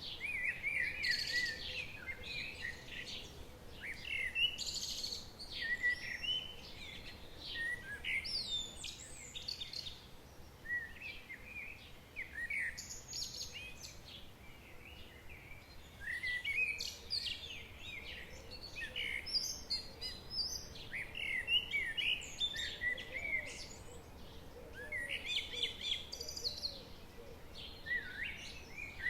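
Songbirds singing and calling in short bursts of chirps and whistles every few seconds, over a faint steady background hiss.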